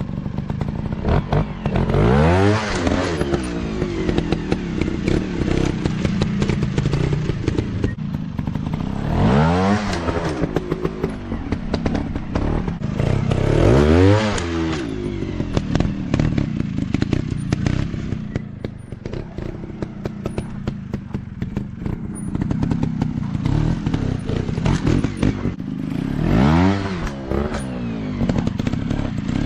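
Dirt bike engines running, with the pitch climbing and falling in hard revs about four times, and a steadier engine drone in between.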